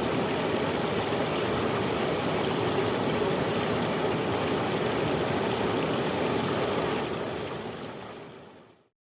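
Running water rushing steadily, fading out over the last two seconds.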